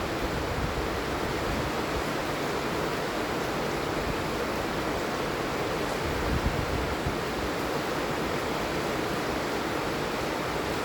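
Steady heavy rainfall, an even hiss with no let-up, with a brief low rumble on the microphone about six seconds in.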